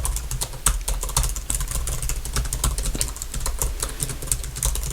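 Rapid, continuous typing on a computer keyboard: a fast run of light key clicks, several a second, with brief gaps between bursts.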